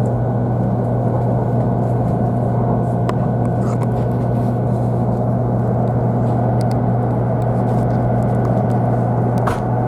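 Steady cabin noise inside a 500 series Shinkansen car: a strong low hum with a faint steady whine above it, and a few faint clicks.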